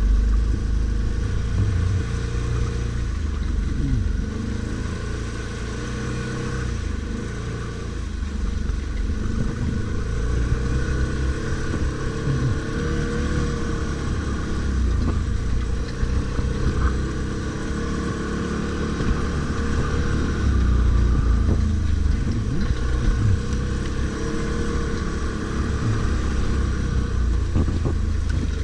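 Stels Guepard 850 ATV engine running off-road, its pitch rising and falling with the throttle.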